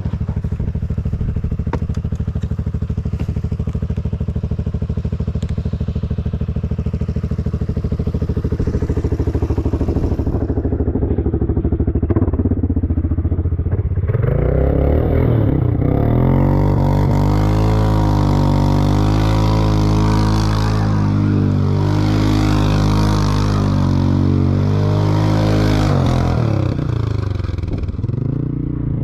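Small off-road vehicle engine running steadily at first. About halfway through it gets louder and revs up and down for several seconds, then eases off near the end.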